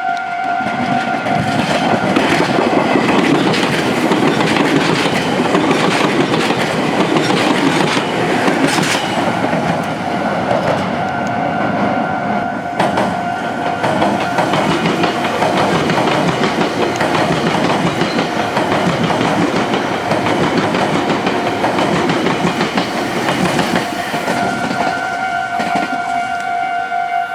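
A Meitetsu electric train runs past a level crossing, wheels clacking over the rail joints. The crossing's warning bell keeps ringing throughout, half buried under the train, and stands out clearly again near the end once the train has passed.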